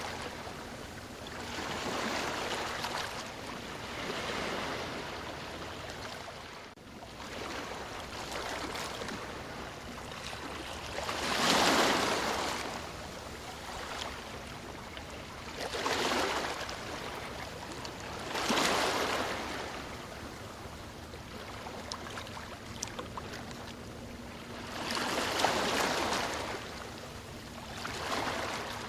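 Ocean waves breaking and washing up the shore, each rush swelling and fading over a steady wash of surf every few seconds, with the biggest breaks about twelve seconds in and near the end.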